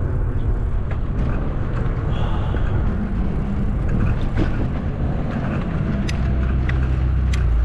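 Wind buffeting the microphone of a camera carried on a moving bicycle, a steady low rumble with a few sharp clicks near the end.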